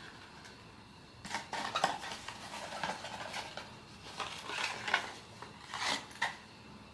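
Hands handling a blind box, its packaging and small hard plastic figure parts: a run of light, uneven clicks and rustles.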